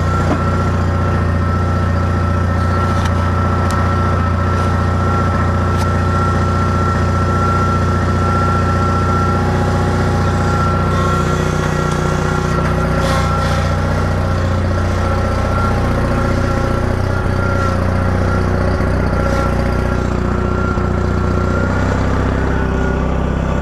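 Small tractor engine running steadily, with a thin steady whine above its note, which shifts a little about two-thirds of the way through.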